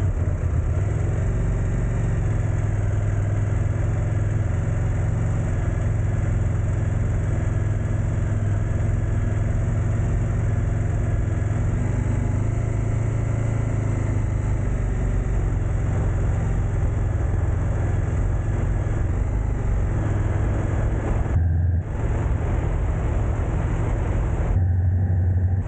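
Motor vehicle running steadily, a continuous low engine and road hum.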